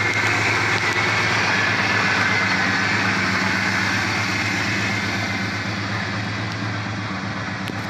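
A vehicle engine running steadily with a low, even hum. The sound eases off slightly toward the end.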